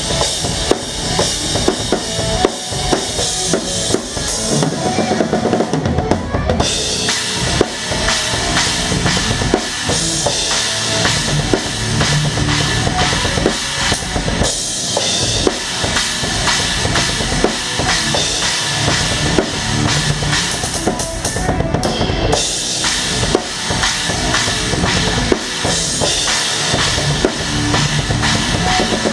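A rock band playing live, the drum kit loud in the mix: bass drum, snare and cymbals drive the beat over the other instruments. The cymbal wash gets heavier about seven seconds in.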